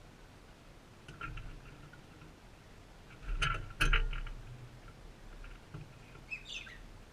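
Birds moving on a feeder right by the microphone: clusters of knocks, taps and scrabbling, one burst about a second in and a louder one about three seconds in, then a short falling bird call near the end.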